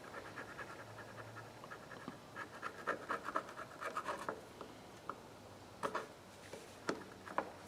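Faint scrubbing and scraping on a gunked-up plastic screwdriver handle being cleaned with carburetor cleaner, in short uneven strokes with a few small clicks.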